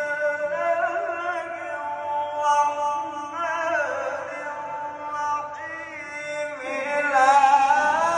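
A man's voice reciting the Quran in melodic tajweed style, drawing out long held notes that slowly bend in pitch. It swells louder near the end.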